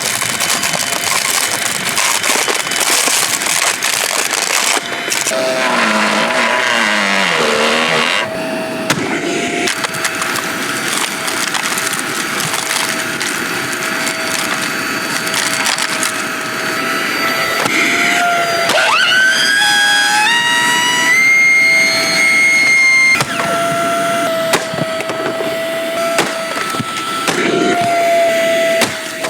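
A Shark Navigator Deluxe vacuum cleaner's plastic body being crushed and broken apart, with continual loud cracking and splintering. A steady whine runs underneath, and several whines rise in pitch about two-thirds of the way through.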